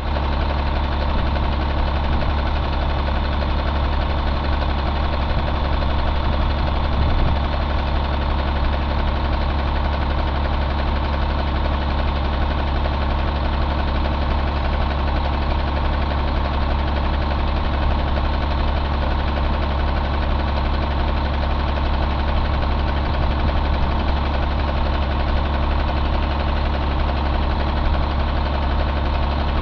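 Caterpillar C9 inline-six diesel engine (2004) running steadily at idle.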